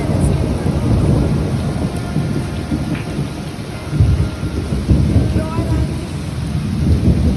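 Summer thunderstorm: steady rain with low rolling thunder rumbling throughout, swelling about four seconds in and again near the end.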